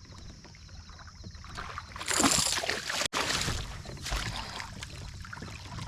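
Water splashing and knocking around a kayak, with a louder burst of splashing about two seconds in.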